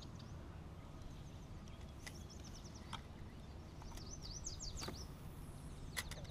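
A songbird singing faintly in two short phrases of quick, high, slurred notes, about two seconds in and again around four to five seconds in. A few faint sharp clicks sound between them over a low, steady background rumble.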